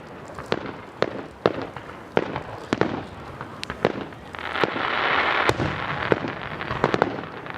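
Fireworks going off: sharp bangs and pops at irregular intervals, with a dense hissing crackle rising about four seconds in and lasting a little over a second.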